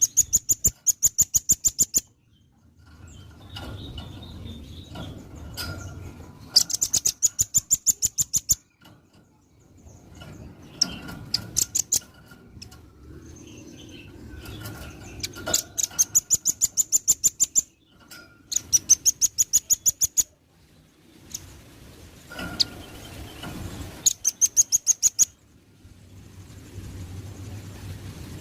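Velvet-fronted nuthatch song: rapid trills of sharp, high notes at about seven a second, in bursts of one to two seconds, repeated six times, with softer chattering between the bursts.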